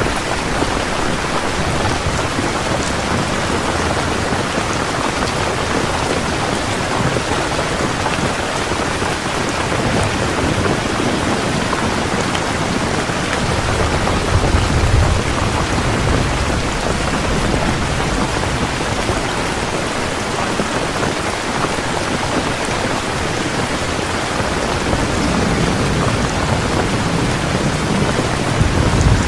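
Heavy rain falling steadily, with low rolls of thunder swelling about halfway through and again near the end.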